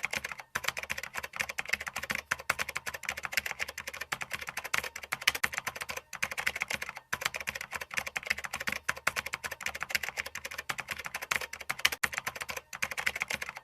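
A dense run of rapid, irregular clicks, strongest in the upper range, with a few brief pauses.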